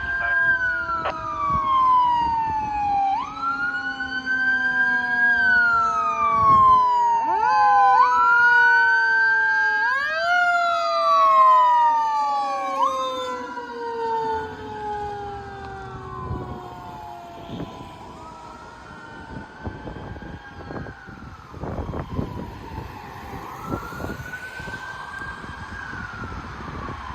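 Fire engine sirens wailing in slow, overlapping rising and falling sweeps, each a few seconds long, growing fainter in the second half.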